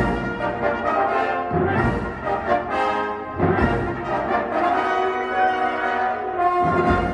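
Live instrumental ensemble music with a brass-band sound, playing held, overlapping notes in phrases that change every couple of seconds.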